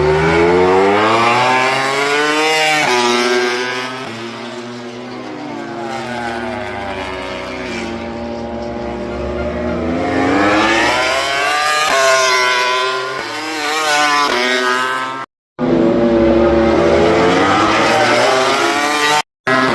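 MotoGP racing motorcycles at full throttle going past, engine pitch climbing through each gear and dropping at the upshifts, sound swelling and fading as bikes pass. The sound cuts out abruptly twice for a moment near the end.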